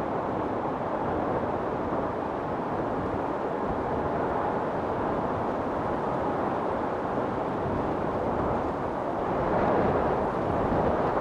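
Storm wind blowing steadily, swelling into a stronger gust near the end.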